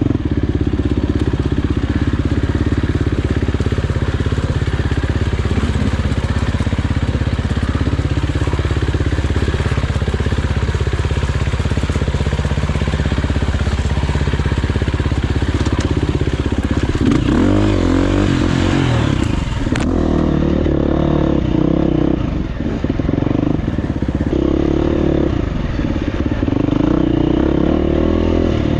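Gasgas EX350F four-stroke dirt bike engine under way on a trail, picked up by a helmet-mounted camera. It runs at a fairly steady pace, then from about two-thirds of the way through rises and falls repeatedly as the throttle is opened and closed through gear changes.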